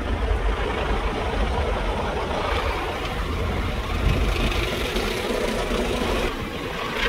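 Automatic car wash machinery running, heard from inside the car's cabin: a steady low rumble with a noisy hiss above it, which grows brighter about two and a half seconds in.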